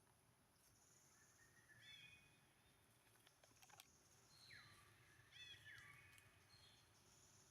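Faint high-pitched animal calls over a quiet background: short stacked chirps recurring every couple of seconds, with two falling whistle-like calls near the middle.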